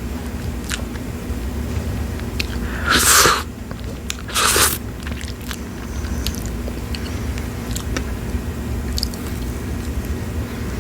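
Close-up mouth sounds of eating fresh strawberries: small wet clicks of chewing, with two louder, juicier bite or slurp sounds about three and four and a half seconds in.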